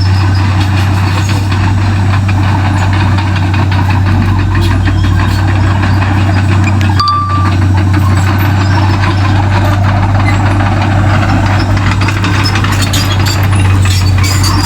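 Komatsu D31P bulldozer's diesel engine running steadily with a strong constant hum. A short beep sounds about halfway through.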